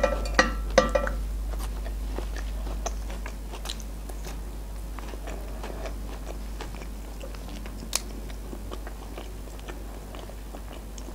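Close-up biting and chewing of a breaded fried chicken piece: soft crunches and small wet mouth clicks, with one sharper click about eight seconds in. A faint steady low hum lies underneath.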